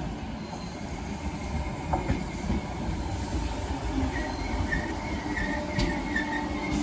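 Merseyrail PEP-family electric multiple unit running through the station with a steady low rumble of wheels on rail. A high-pitched squeal joins about four seconds in.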